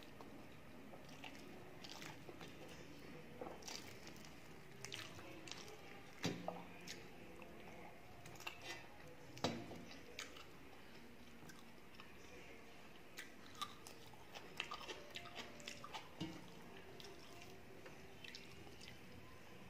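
Close-up eating sounds of a person eating rice and fried fish by hand: quiet chewing with scattered short, sharp mouth clicks, the loudest about halfway through.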